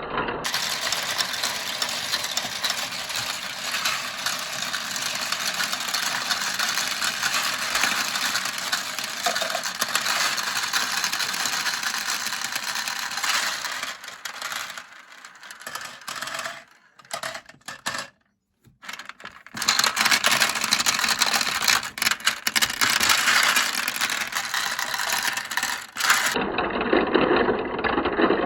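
Many marbles rolling and clattering down a marble run, a dense, continuous rattle. It thins out and stops for a moment a little past the middle, then starts again at full density.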